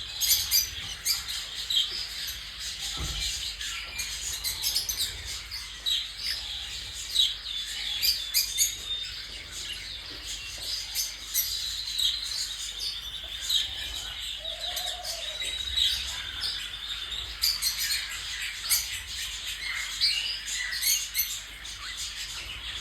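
Small pet parrots chirping and chattering without pause, a steady run of short high chirps and clicks.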